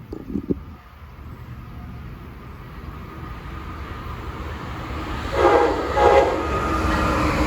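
An approaching train sounds its horn in two short blasts, a chord of several tones, over the rising rumble of the train drawing near.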